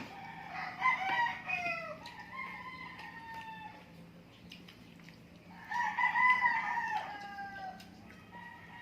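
Rooster crowing several times, each crow drawn out and falling in pitch at the end; the loudest crow comes about six seconds in.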